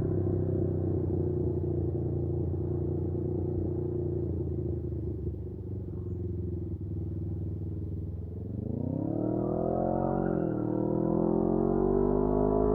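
Can-Am Ryker 600's two-cylinder engine idling steadily, then revved: about two-thirds of the way through the pitch climbs, dips briefly, and climbs again to be held at higher revs.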